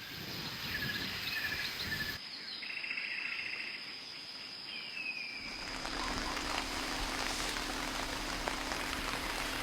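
Tropical forest ambience: short bird chirps and an insect's buzzing trill. About five seconds in it cuts to a steady hiss of heavy rain.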